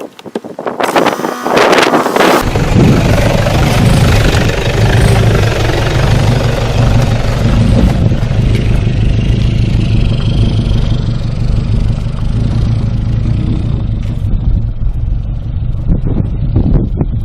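An off-road 4x4's engine running steadily under load as the vehicle drives a rocky trail, with broad road and wind noise over it and a short burst of noise right at the start.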